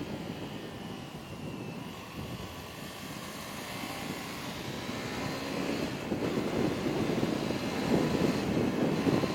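Motorcycle engine running on the move, mixed with wind rushing over the rider's microphone, with the engine note gliding up and down. It grows louder in the second half.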